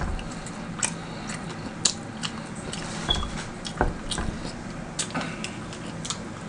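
Someone eating chicken wings: irregular wet clicks and smacks of chewing and mouth sounds, with a sharper click about two seconds in.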